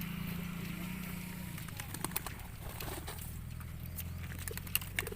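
Domestic pigeons cooing, with scattered light clicks over a steady low hum.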